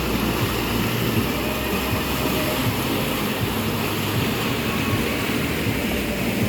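Steady rushing of water pouring down an artificial water-park waterfall, with a low rumble under it.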